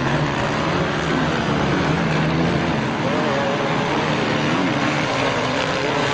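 Motorcycle engines running in a steady drone, with voices mixed in.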